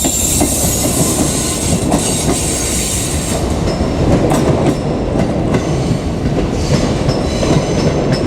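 JR Kyushu 787 series electric train passing close by: a steady rolling rumble with the clack of wheels over rail joints, and a faint high wheel squeal in the second half.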